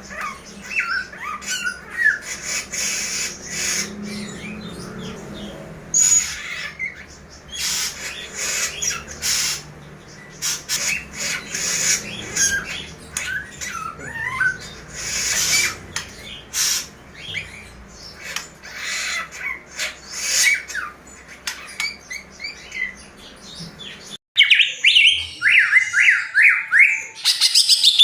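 Several caged songbirds calling, with short chirps, whistled glides and harsh squawks overlapping. About 24 seconds in, the sound cuts to a single bird singing a fast run of rapid chirped notes.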